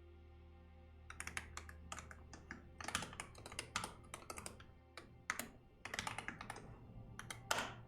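Computer keyboard typing in quick runs of keystrokes with short pauses between them. The typing starts about a second in and stops just before the end, with one louder keystroke near the end.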